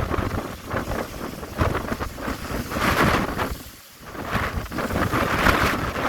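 Strong gale-force wind buffeting the microphone in gusts, with a brief lull a little under four seconds in.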